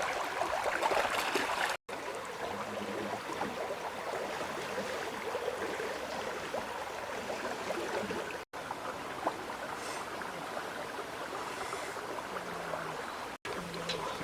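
River water flowing and babbling steadily, with three very short dropouts.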